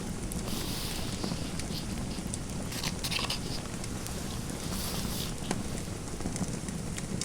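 Fireplace fire crackling with scattered small pops over a steady low rush, and a pen scratching on paper in a few short strokes.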